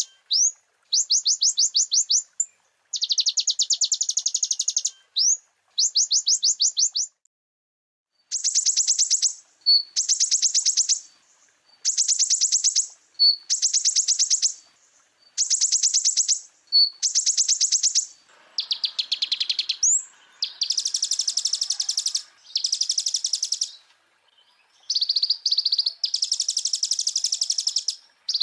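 Konin (sunbird) song: a series of high, rapid trills, each lasting about one to two seconds with short pauses between them, broken by a few single sharp notes and, about two-thirds of the way in, a rising whistle.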